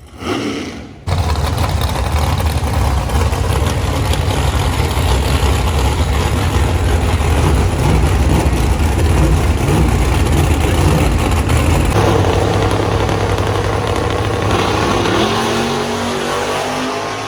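Car engines running loudly with a heavy low rumble. Near the end an engine revs up, its pitch rising, as the rumble fades.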